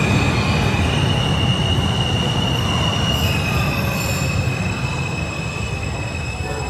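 New York City subway train on the IRT 7th Avenue Line pulling into the station: a heavy low rumble of wheels on track, with a steady high-pitched squeal from the wheels and brakes that shifts slightly in pitch about three seconds in.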